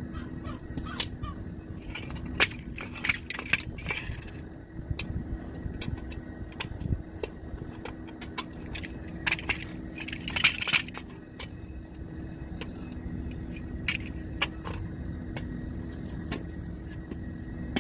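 Smart Fortwo 451 running steadily, with irregular sharp clunks and rattling knocks from the gearbox housing, bunched in flurries about three seconds in and again about ten seconds in.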